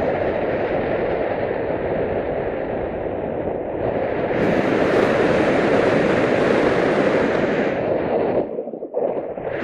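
Wind buffeting the microphone: a loud, steady rushing noise that turns brighter and hissier about four seconds in, then drops away briefly and returns near the end.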